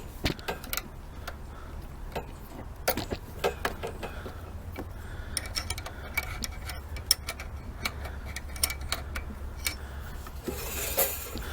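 Scattered light clicks and taps from hands working with small parts or tools, over a steady low hum.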